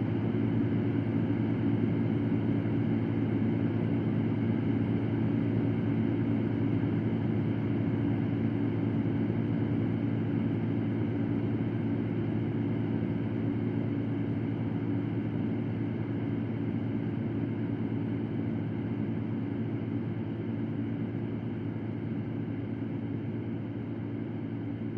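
Electric fan running steadily: an even, low-pitched whir of moving air that eases slightly quieter toward the end.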